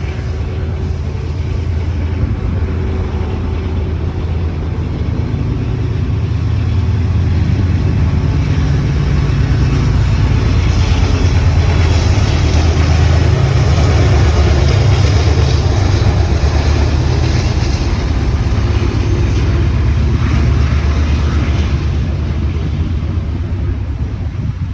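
Freight train passing: a steady low diesel rumble with wheel-on-rail noise that grows louder in the middle.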